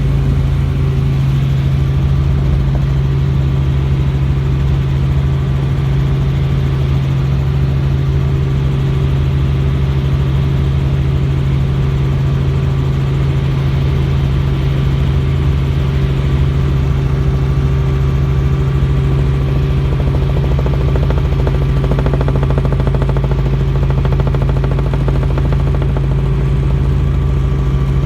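Helicopter in flight heard from on board: a loud, steady drone of engine and rotors with a constant low hum.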